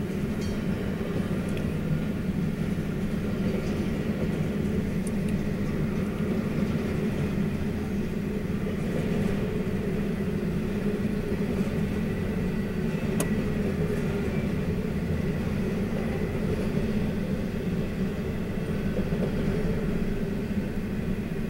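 Double-stack container train's cars rolling past: a steady noise of steel wheels on the rails, with one sharp click about thirteen seconds in.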